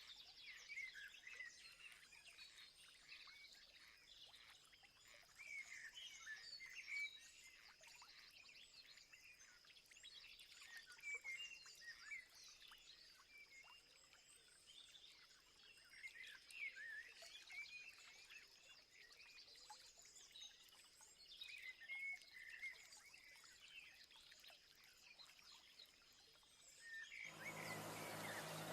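Many small birds chirping and twittering faintly, short overlapping calls one after another, over a thin steady high tone. Near the end the sound changes suddenly to a louder, even hiss with a low hum.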